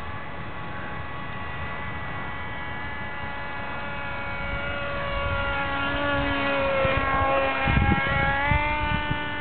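RC airplane motor droning steadily. It grows louder and its pitch slides down and back up as the plane passes close, about six to nine seconds in, with low buffeting on the microphone at the loudest point.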